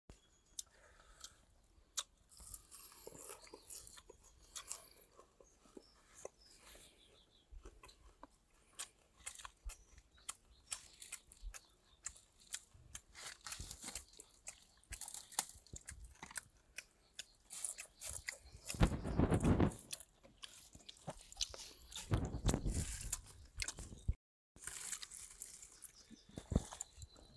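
Close-up crunchy chewing and biting of cooked green grasshoppers: many short, sharp crunches, with a louder stretch for a couple of seconds a little past two-thirds of the way through.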